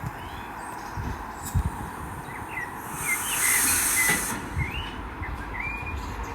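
Train at the station running with a steady hum, with a burst of air hiss lasting about a second about three seconds in; birds chirp over it.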